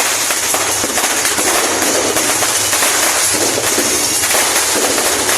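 Fireworks crackling: a dense, continuous stream of rapid small pops with no break.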